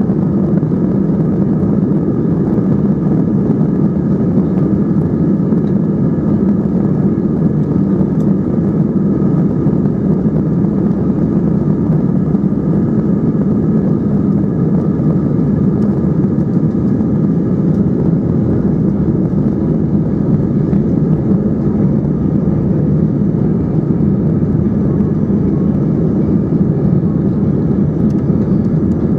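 Steady, loud cabin roar of an Airbus A320-232's IAE V2500 engines running at high power, mixed with air rushing past the fuselage, heard from a window seat inside the cabin.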